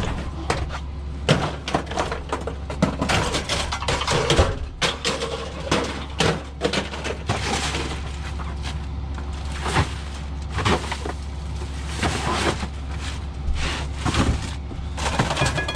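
Irregular knocks and clattering over a steady low hum.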